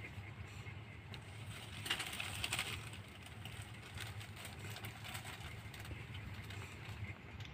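Faint steady low rumble with scattered light clicks and a brief rustling about two seconds in.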